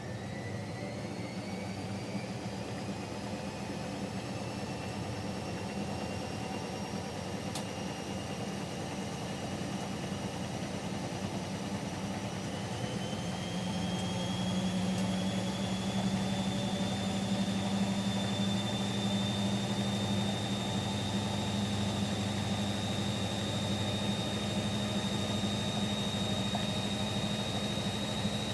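Siemens Siwamat Plus 574 front-loading washing machine on an interim spin between rinses: the drum motor's whine rises in pitch as the drum speeds up, then holds steady at speed over a low hum. A single short click comes about a third of the way in.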